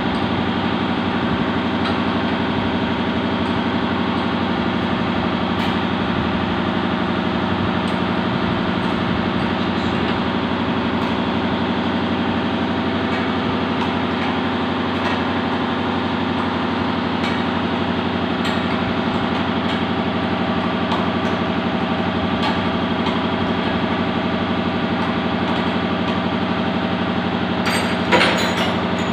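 Machine running steadily with an even, multi-toned hum, a few faint clicks, and a brief louder clatter about a second before the end.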